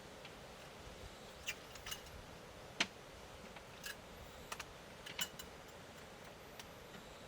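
Sparse sharp clicks and crackles, irregularly spaced, over a faint steady hiss; the loudest click comes a little under three seconds in.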